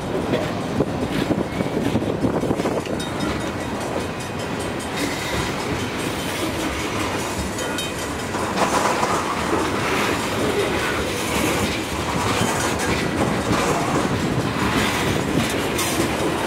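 Freight cars of a long mixed freight train rolling past, steel wheels clattering over the rail joints in a steady rumble that gets a little louder about halfway through.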